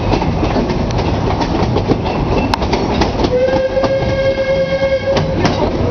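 Steam train running, its wheels clicking over the rail joints under a steady rumble. About three seconds in, the locomotive's steam whistle sounds one steady blast lasting about two seconds.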